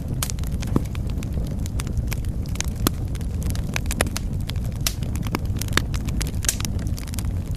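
Wood fire burning in a fireplace, with a steady low rumble of flames and frequent sharp, irregular pops and crackles.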